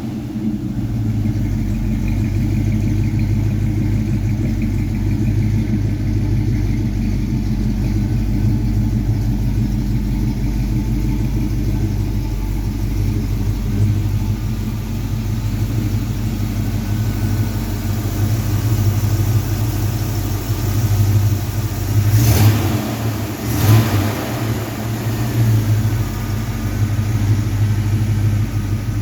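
1948 Chevrolet pickup's inline-six engine running steadily, with two short sharp noises close together about three quarters of the way through.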